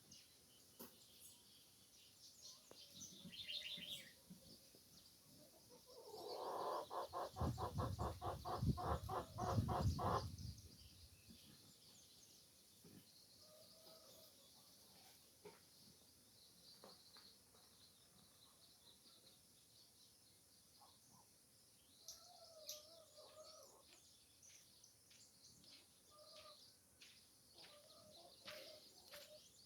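Birds chirping and calling in short, scattered notes, with a brief high trill a few seconds in. About six seconds in comes a louder, rapidly pulsing sound lasting about four seconds.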